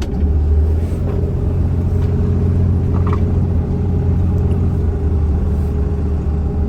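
Steady low engine drone and road rumble heard inside a moving semi-truck's cab.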